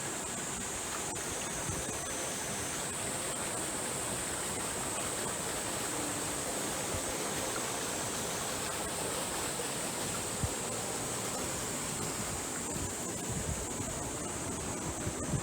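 Steady rushing of running water, with one short knock about ten seconds in.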